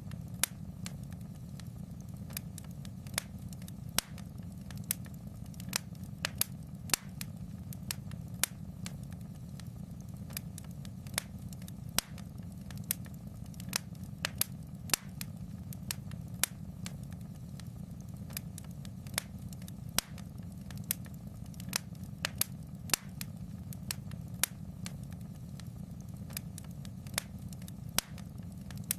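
Wood fire crackling in a fireplace: sharp, irregular pops and snaps, about one or two a second, over a steady low rumble of the flames.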